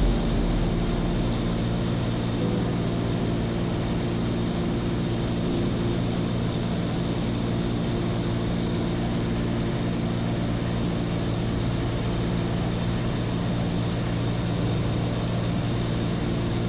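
Seaplane's piston engine and propeller droning steadily in flight, at an even pitch and level throughout.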